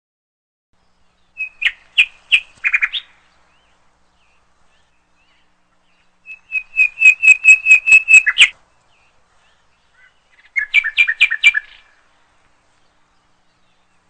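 A bird singing three phrases of rapid, evenly repeated clear chirps, each phrase lasting one to two seconds, with a few seconds of silence between them.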